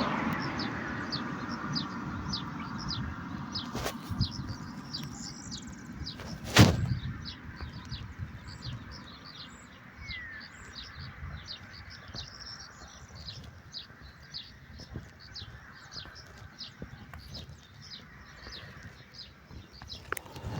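Birds chirping: a steady run of short, high chirps, several a second, over a low rumble. A sharp knock sounds about six and a half seconds in.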